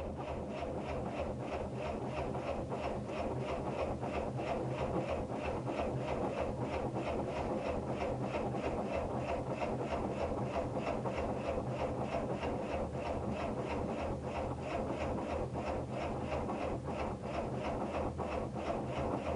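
Kramer KL600 tractor's Deutz diesel being cranked over by a weak electric starter motor in the cold, turning slowly with an even beat of compression strokes and never catching.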